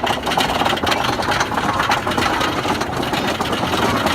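Steady, rapid mechanical clattering and rumble from GhostRider, a wooden roller coaster, as it runs.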